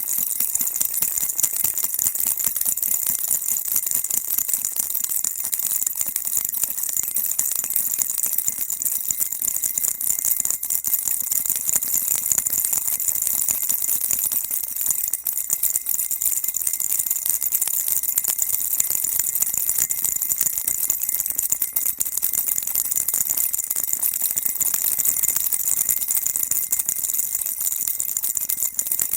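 Baby rattle shaken continuously without pause, making a dense, even, bright rattling.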